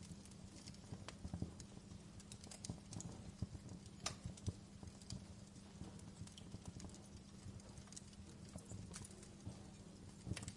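Wood fire crackling in a fireplace: irregular sharp crackles and occasional louder pops over a low steady rumble of the flames.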